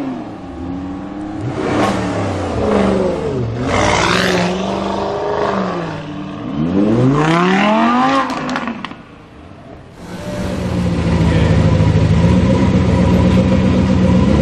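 Sports car engines. First a high-revving engine rises and falls in pitch over several strong revs, then a short lull, and from about ten seconds in an engine runs at a steady, constant note.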